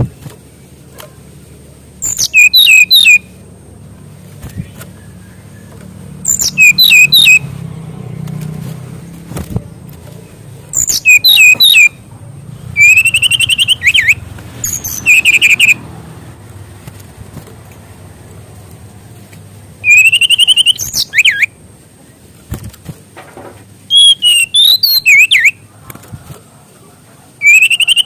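A sikatan rimba dada coklat (SRDC, a jungle flycatcher) singing loud phrases of rapid, gliding whistled notes, each about a second or two long, seven times with pauses of a few seconds between. A low hum and a faint steady high tone run underneath.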